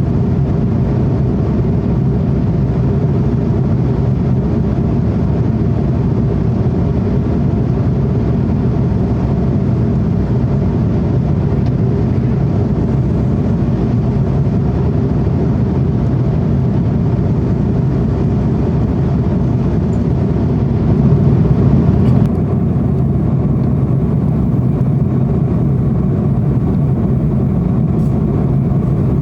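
Steady roar of an airliner's engines and airflow, heard from inside the passenger cabin. About three-quarters of the way through it swells briefly, and after that the higher hiss drops away.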